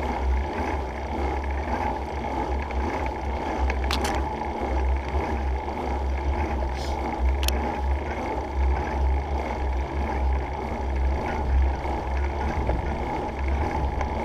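Wind buffeting a handlebar-mounted GoPro in an open skeleton case, a steady low rumble over the tyre noise of a Surly Krampus bike riding uphill. A few sharp clicks come partway through.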